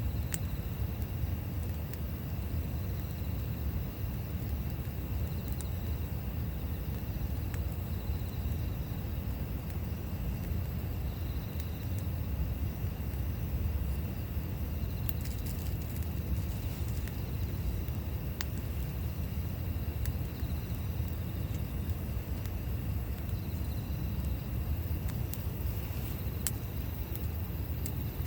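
Campfire burning: a steady low rumble with a few scattered sharp crackles and pops of burning wood.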